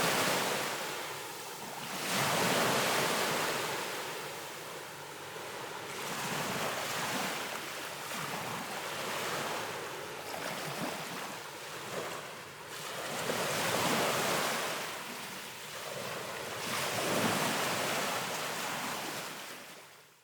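Ocean waves washing in and drawing back, the surf swelling and ebbing every few seconds, with some wind; the sound fades away near the end.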